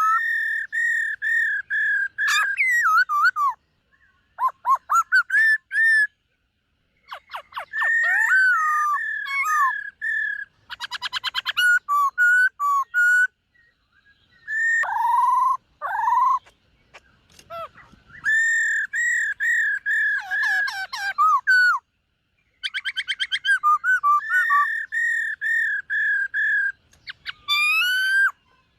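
Black-throated laughingthrush singing a long series of loud, clear whistled phrases. These are held warbling notes broken up by rapid trills and slurred notes, with short pauses between phrases.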